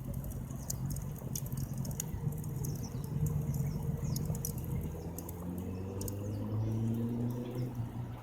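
Wood campfire crackling with irregular sharp pops, over a steady low drone that rises slightly in pitch in the second half.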